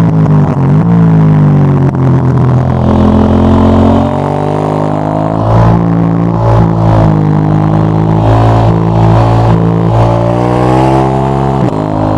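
KTM 890 Duke GP parallel-twin engine through a Dominator HP8 slip-on exhaust with its dB-killer fitted, running hard. The pitch climbs and drops again and again with throttle and gear changes, with a sharp drop about a second in and again near the end.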